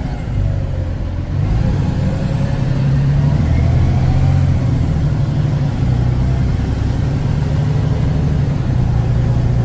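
Cab-interior drone of a Kenworth T360 concrete agitator truck's diesel engine under way, steady and fairly loud, its pitch shifting a few times as the engine speed changes.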